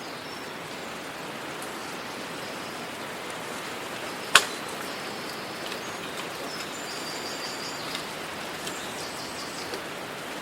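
Steady outdoor noise hiss with faint high bird chirps in short runs, and a single sharp click a little under halfway through.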